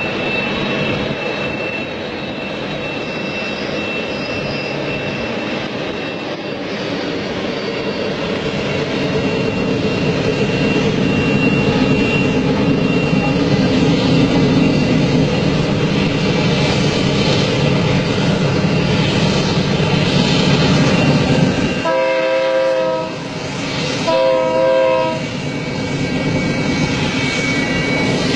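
Freight train running past with a steady rumble, a faint high squeal in the first half, then two horn blasts of about a second each near the end.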